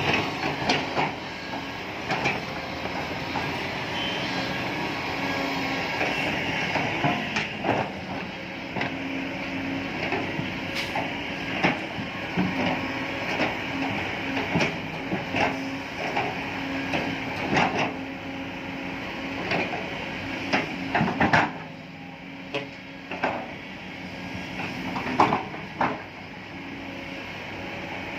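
Heavy machinery running with a steady hum, broken by frequent irregular metallic clanks and knocks. The running sound eases a little about three quarters of the way through.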